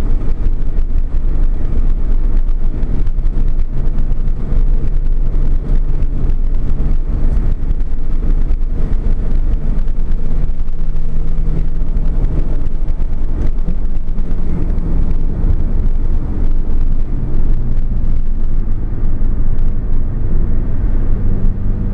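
Porsche 911 Carrera S (991) flat-six engine running at fairly steady revs, its pitch holding for a few seconds at a time and then stepping up or down. A heavy low rumble of road and wind noise runs underneath.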